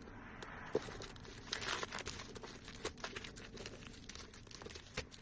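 Dried Mod Podge film peeling off a cured resin tray, with continuous crackling and tearing and many small clicks. Two sharper clicks stand out, one just under a second in and one near the end.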